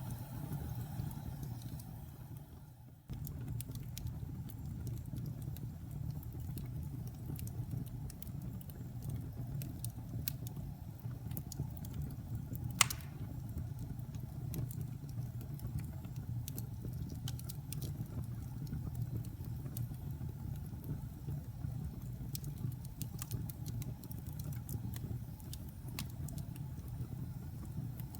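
Wood fire burning in a fireplace: a low steady rumble of flames with scattered sharp crackles and one loud pop about halfway through. The sound fades out briefly and comes straight back about three seconds in.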